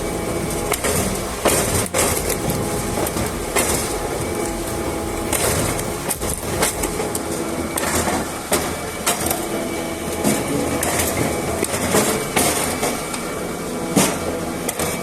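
Firewood splitting machine running, with a steady mechanical drone and frequent irregular sharp knocks and cracks as logs are forced through the splitting blades.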